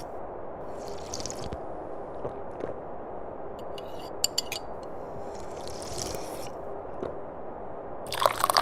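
Tea being slurped from a cup in short sips, one about a second in and another around six seconds, with a louder slurp near the end. A few small clicks sound around four seconds, over a steady low background.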